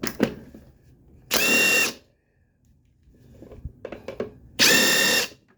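Cordless impact wrench on a strut-shaft nut, triggered in two short bursts of about half a second each, with small clicks of handling between. The tool is not working on this nut, so it gets done by hand instead.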